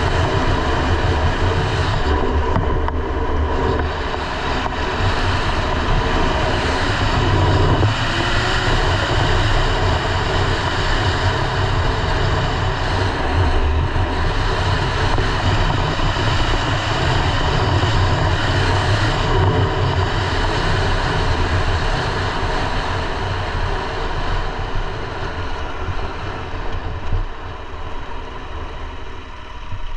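KTM 890 Adventure R's parallel-twin engine running on the move, mixed with a steady rush of wind noise. Over the last several seconds it eases off and quietens as the bike slows.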